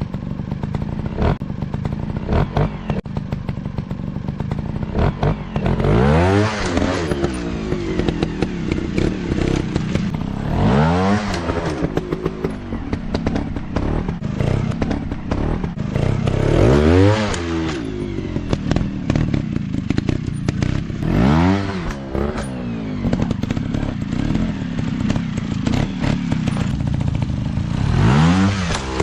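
Dirt bike engine running, revved up and dropped back about five times, with clattering throughout.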